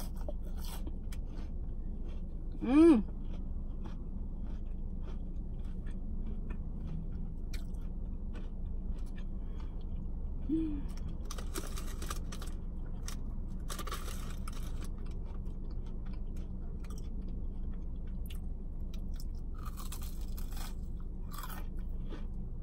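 Close-up chewing and crunching of filled churro bites, with wet mouth clicks, over a steady low hum. A short, loud hummed vocal sound of enjoyment comes about 3 s in, and a softer one around 10 s.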